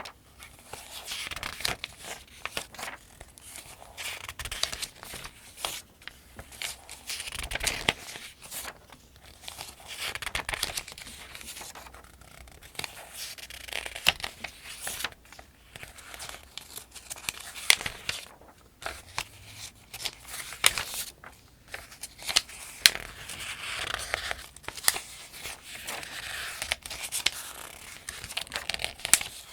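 Pages of a thin paperback almanac turned by hand one after another, each turn a rustle of paper with sharp crackles and snaps.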